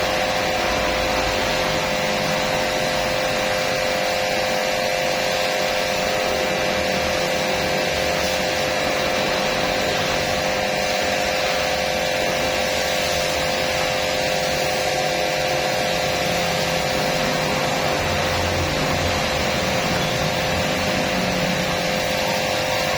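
Electric cleaning machine's motor running steadily with a constant whine.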